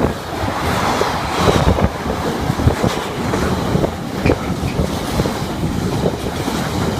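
Strong wind buffeting the microphone over the low, continuous rumble of a train running along the main line, with scattered knocks.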